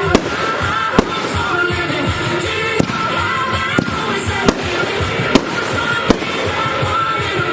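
Fireworks going off during a display: about seven sharp bangs, roughly one a second, over steady music playing throughout.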